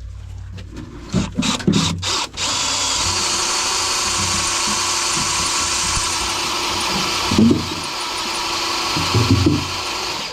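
Handheld power tool running steadily for about eight seconds after a few knocks, then stopping.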